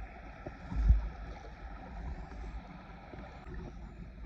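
Water sloshing and swirling around a person's legs as they wade, muffled by the camera sitting in a pocket, with a low thump about a second in.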